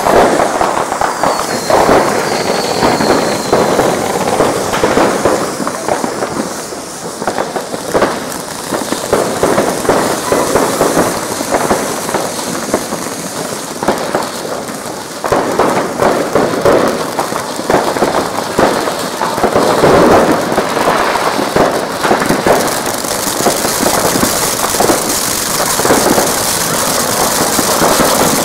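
Fireworks and firecrackers going off in a dense, unbroken barrage: many overlapping bangs and crackling pops in rapid succession.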